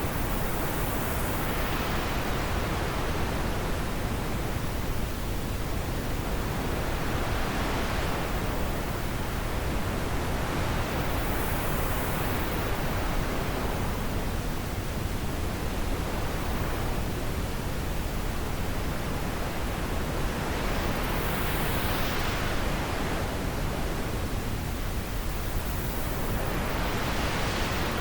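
Wind blowing as a steady rushing noise that swells and eases in gusts every few seconds.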